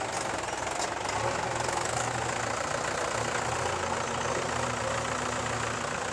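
Diesel engine running steadily at low revs with a low throb.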